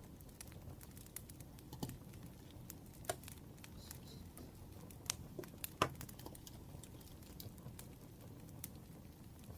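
Wood fire crackling, with scattered small snaps and a few louder pops over a soft low rumble.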